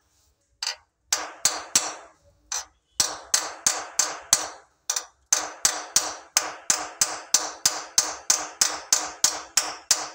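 A hammer striking repeatedly, about three blows a second with a few short pauses, typical of nailing cable clips to fix wiring in place.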